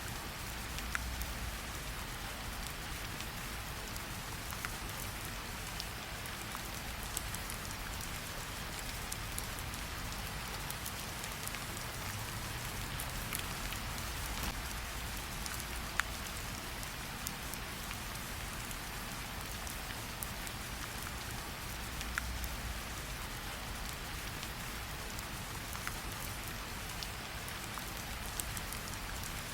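Steady rain falling, mixed with the occasional crackle of a campfire: scattered sharp pops over the even hiss, one louder about halfway through.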